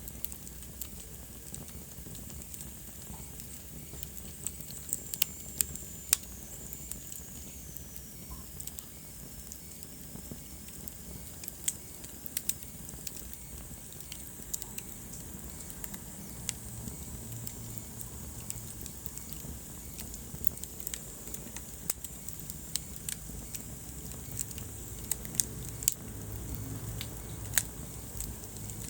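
Wood fire burning in a fireplace: a low steady rumble of flames with irregular sharp crackles and pops, several louder pops clustered about five seconds in and near the end. A faint high whistle slides down in pitch for a few seconds early on.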